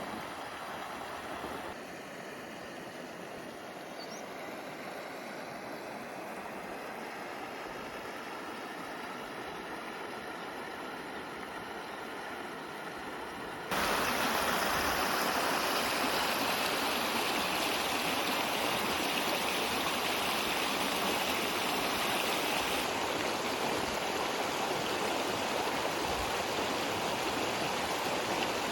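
A small stream running steadily over stones, a continuous rushing and babbling of water. About halfway through it suddenly becomes louder and brighter.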